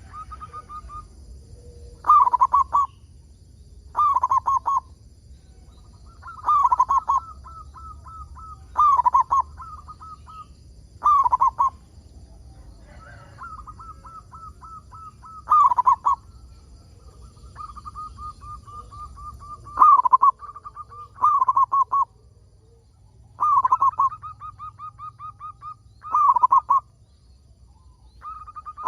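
Zebra dove (perkutut) cooing in repeated phrases every two to four seconds, each a quick run of short soft notes followed by a few louder, bending coos. Faint high chirps from other small birds sound behind it.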